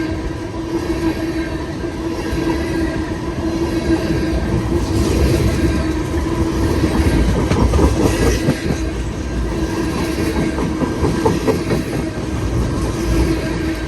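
Freight cars of a mixed freight train rolling past, a steady rumble and clatter of wheels on rail with a steady tone held over it.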